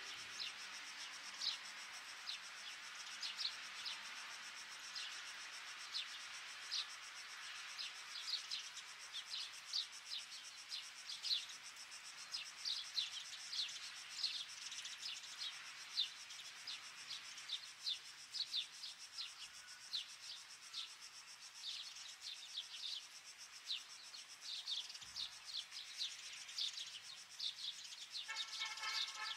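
Faint outdoor ambience of small birds chirping: many short, high chirps that drop in pitch, scattered irregularly over a soft hiss. Near the end a lower, fuller pitched call comes in.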